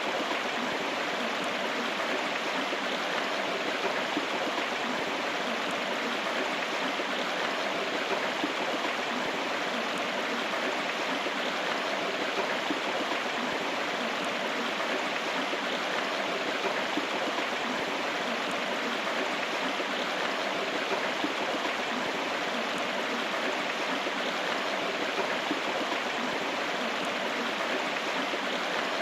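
A river running steadily, an even rush of flowing water.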